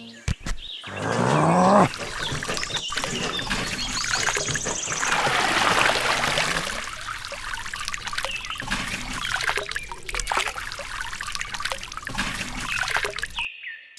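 Water trickling and pouring with small splashes, with a short rising tone about a second in.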